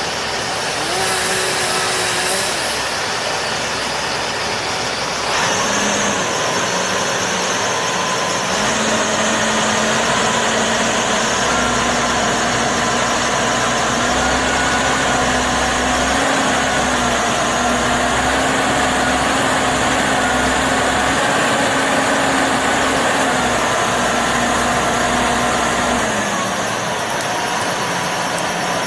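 An engine running steadily, its pitch stepping up a few seconds in and dropping back near the end.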